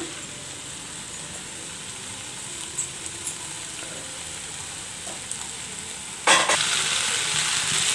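Vegetable samosa filling of potato, carrot, beans and onion frying in a non-stick kadai with a steady, soft sizzle. About six seconds in, a wooden spatula starts stirring the filling and the sound turns louder.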